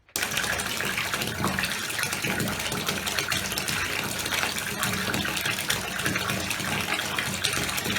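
Water running steadily into a reservoir as it is filled, a constant gushing splash that starts and stops abruptly.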